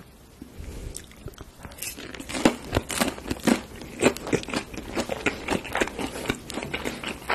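Close-miked chewing of a mouthful of crunchy food: many irregular crisp crunches, starting faint about a second in and coming louder and thicker from about two seconds in.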